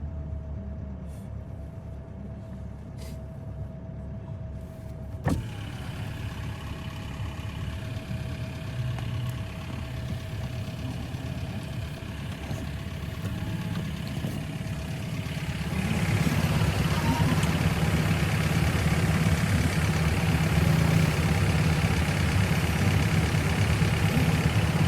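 Car driving, heard from inside: steady engine and road rumble with a single click about five seconds in, growing louder about two-thirds of the way through.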